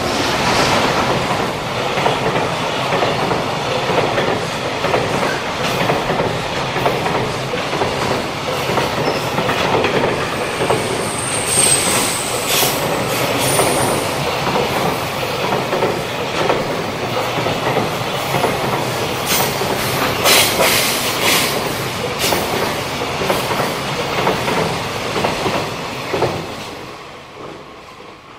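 JR Freight EF210 electric locomotive and a long train of container wagons passing close by: a steady, loud rumble and rattle of wheels on the rails with bursts of sharp clicks, and a brief high squeal about twelve seconds in. The sound falls away quickly as the last wagon passes near the end.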